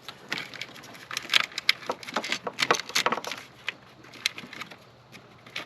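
Irregular clicks, knocks and rattles of hands working a washer hose and the parts around it, thickest in the first three seconds and thinning out later.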